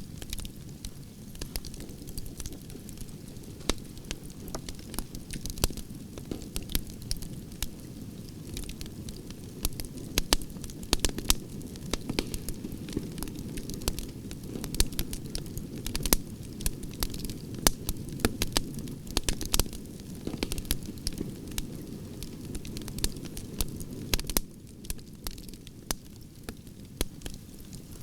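Wood fire of burning branches crackling: a steady low rush of flames under frequent irregular pops and snaps, a few louder cracks among them, thinning out a little near the end.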